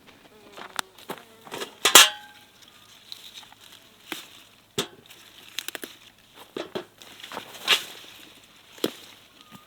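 Kitchen utensils and dishes being handled: a series of sharp clinks and knocks at uneven intervals, the loudest a ringing clink about two seconds in.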